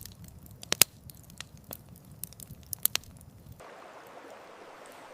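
Campfire crackling, with irregular sharp pops and snaps over a low rumble. About three and a half seconds in it cuts abruptly to a steady, even hiss of running water.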